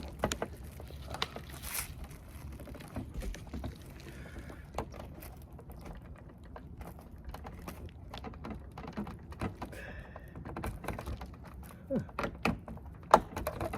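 Scattered clicks, taps and knocks of a plastic bumper cover and its retaining clips being handled and pushed into place, busier near the end with one sharp click.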